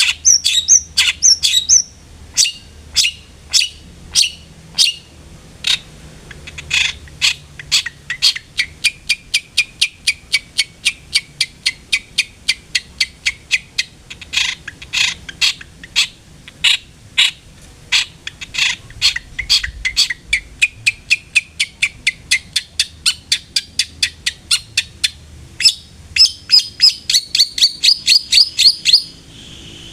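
Long-tailed shrike (cendet) calling in a rapid run of short, sharp, harsh notes, several a second. The notes crowd into a faster chatter near the end.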